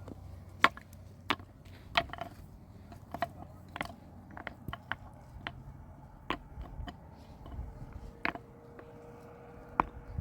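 Irregular sharp knocks and taps, roughly one or two a second, a few with a brief ring.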